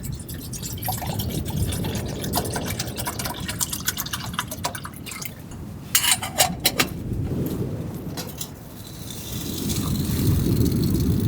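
Water being poured and swished in a pot, with drips and small clinks of the pot, as rice is rinsed and readied for cooking. A denser run of clinks comes about six seconds in, over a low rumble that swells near the end.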